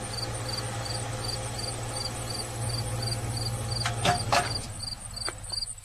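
Insects chirping in a steady rhythm, about three short high chirps a second, over a low steady hum that fades out near the end. A few sharp clicks come around four seconds in.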